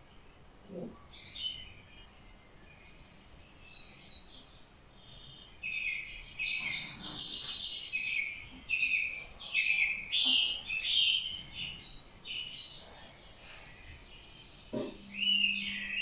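Small birds chirping and twittering: a quick, dense run of short high notes, busiest in the middle.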